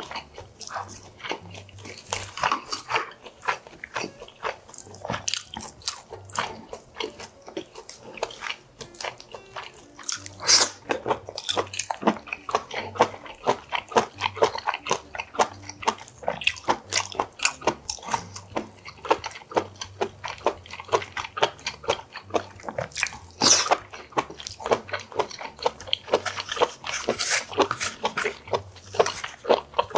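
A person chewing and biting food close to the microphone: a dense run of wet mouth clicks and crunches, with a few sharper, louder clicks.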